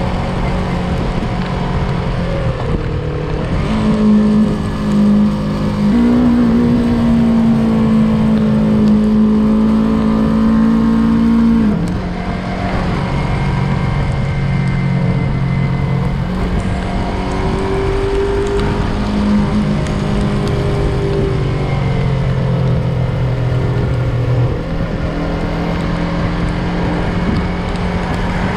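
Yamaha MT-03 motorcycle engine running under way, heard from on the bike. Its steady note steps up in pitch about 4 and 6 seconds in, drops around 12 seconds, rises again around 17 seconds and drops near 25 seconds as the revs change.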